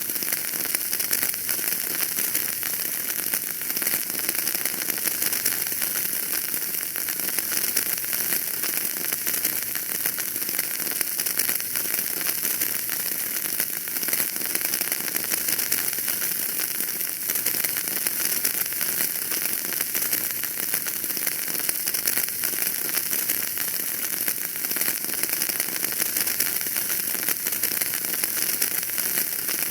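Wood fire burning in a fireplace, crackling continuously with dense small pops over a steady high hiss.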